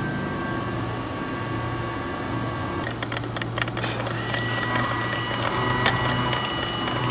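CNC machine tool running: a steady motor hum and whine, broken about three seconds in by a brief clatter, after which a new, higher whine holds steady.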